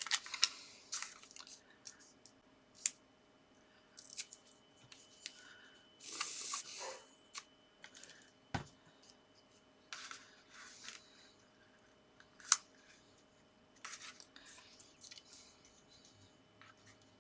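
Paper card and a paper star embellishment being handled and pressed into place: scattered light taps and clicks with short paper rustles, one sharper click about two-thirds of the way through.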